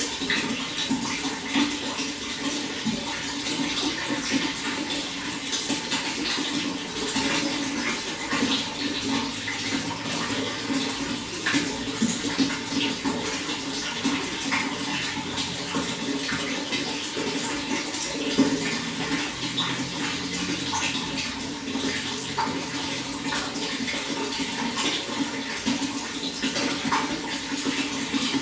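Running water flowing steadily, with a constant rush and many small splashes and drips throughout.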